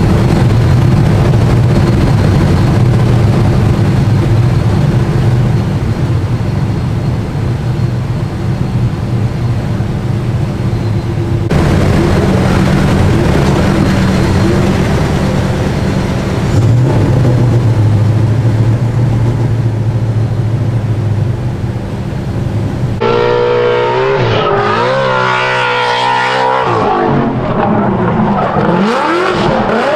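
S197 Ford Mustang drift car's engine running hard, fairly steady in pitch, with abrupt changes in the sound about 11 and 23 seconds in. In the last part the revs swing sharply up and down.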